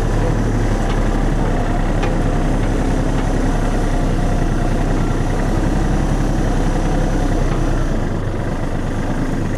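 Kubota tractor's diesel engine running steadily while hauling a log, easing off slightly near the end.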